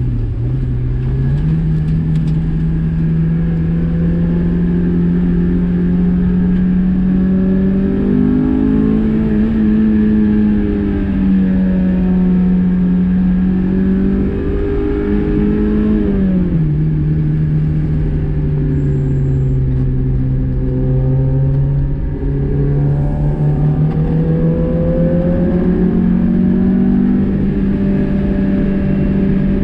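Car engine heard from inside the cabin while driving hard through bends, its note climbing and dropping several times as the driver accelerates and lifts, over steady road noise.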